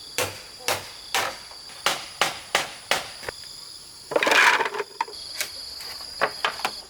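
A series of sharp chopping knocks on wood, about two a second, with a rasping scrape about four seconds in, over a steady high-pitched insect drone.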